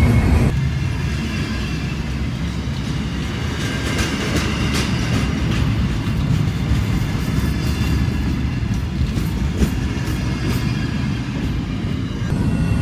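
Double-stack intermodal freight train's well cars rolling past at close range: a steady deep rumble of steel wheels on rail, with clusters of sharp clicks as the wheels cross rail joints.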